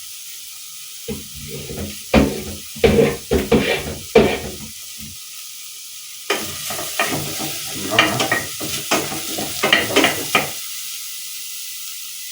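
Duck pieces frying in hot oil in a pot, sizzling steadily, while a wooden spoon stirs and scrapes against the pot in two bouts; the stirring stops a couple of seconds before the end and only the sizzle remains.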